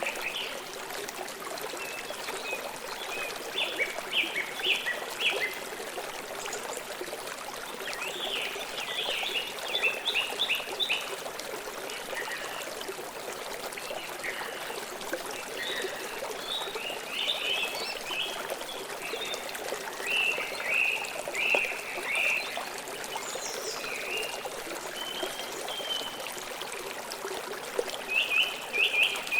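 River water flowing and trickling steadily, with groups of quick, high bird chirps breaking in every few seconds.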